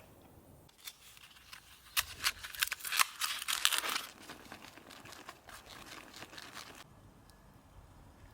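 Crinkling and rustling of something being handled or crumpled: a dense run of sharp crackles for about two seconds, then fading to faint rustling.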